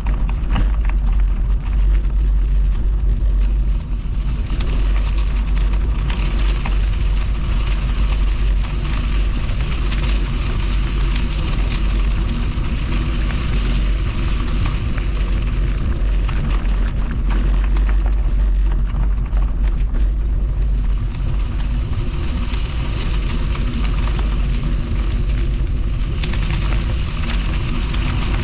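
Wind rumbling on the microphone of a camera carried on a moving bicycle, a deep steady buffeting under a continuous crackly hiss from the ride.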